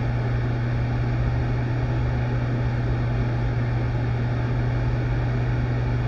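A steady low hum with an even noisy rush over it, unchanging throughout, like a running motor or fan.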